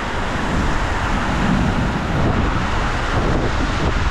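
Storm wind and rain, steady throughout, with wind rumbling on the microphone.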